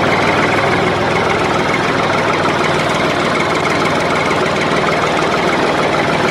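Small motor of a miniature model tractor or pump running steadily at an even, engine-like pitch.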